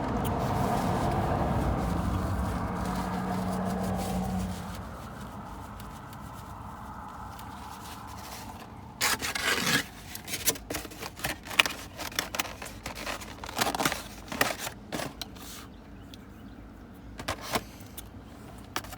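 Car interior: a low rumble with a steady hum for the first four or five seconds, then a quieter stretch. From about halfway on come a string of short clicks, scrapes and rustles, as of keys and food packaging being handled.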